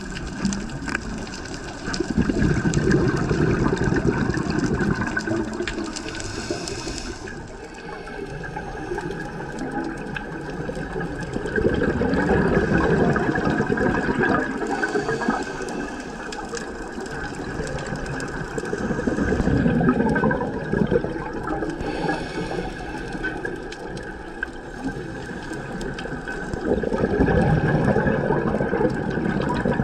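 Scuba diver breathing underwater through a regulator: a short hiss on each inhale, then a rush of exhaled bubbles, in a slow cycle about every seven to eight seconds.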